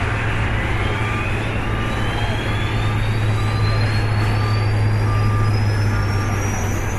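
Airbus A380 turbofan engine spooling up during engine start: a thin whine rising steadily in pitch over a steady low drone.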